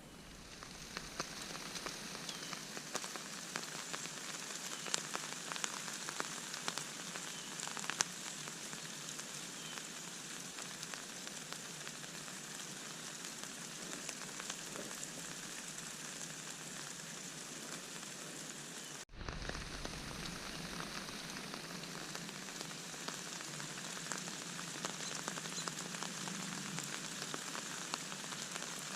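Light rain pattering steadily, with scattered individual drops ticking. The sound drops out for an instant about two-thirds of the way through.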